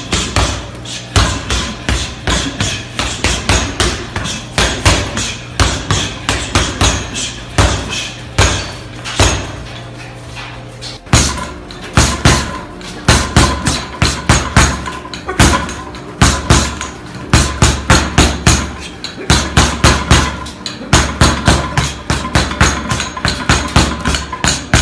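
Rapid punches on a boxing speed bag, several sharp smacks a second in an uneven, fast rhythm, over background music with a steady bass line that changes key about halfway through.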